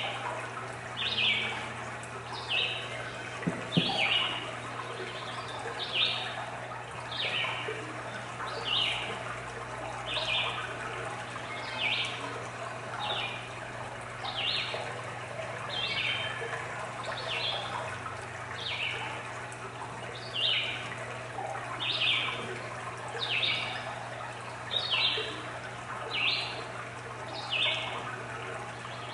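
Nature-sounds recording played over a sound system: running water with a short high call repeated about every second and a half, over a faint steady hum. A single knock comes about four seconds in.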